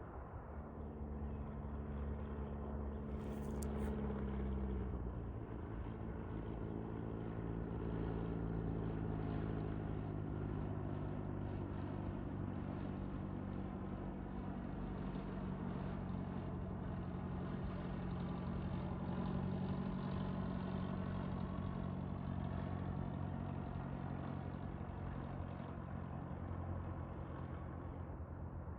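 An engine running with a steady drone; its pitch drops about five seconds in, then holds. A brief sharp click comes near the start.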